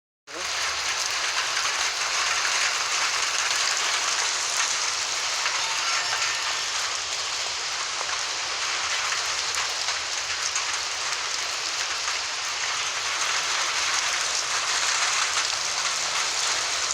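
Heavy rain falling: a steady, dense hiss of drops striking surfaces.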